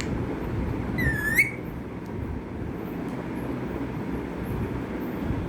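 A pet parrot gives one short high squeak, dipping then rising, about a second in, over a steady low background rumble.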